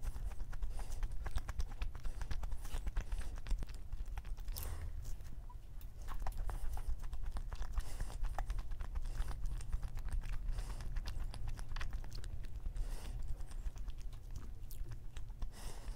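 Close-miked chewing of a cream-filled Lotus Biscoff donut with a crunchy cookie-crumb topping: a steady run of small mouth clicks and smacks over a low hum.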